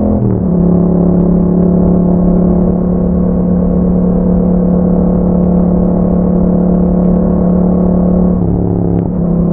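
Yamaha MT-07's 689 cc parallel-twin engine running through an Akrapovic aftermarket exhaust while riding. The engine note drops just after the start, as in an upshift, then holds a steady drone at even revs, with a brief change in the note near the end.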